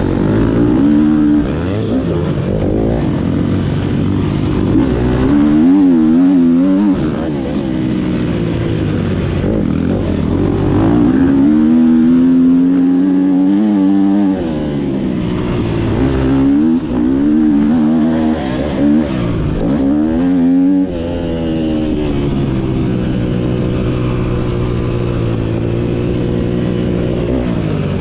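Motocross bike engine revving hard, its pitch climbing and falling again and again as the throttle opens and closes, with sharp drops every several seconds, then holding a steadier note for the last few seconds.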